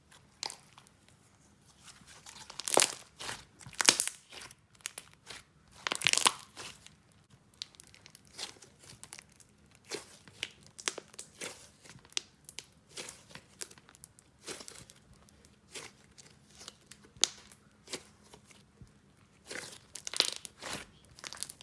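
Hands squishing, poking and stretching a jelly slime with clear fishbowl beads mixed in, giving irregular sticky crackles and crunchy pops, with louder bursts about three, four and six seconds in and again near the end.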